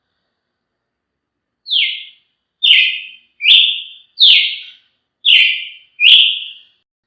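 Brazilian tanager (tiê-sangue) singing: a series of six loud notes in quick succession, each sliding down in pitch, beginning about a second and a half in.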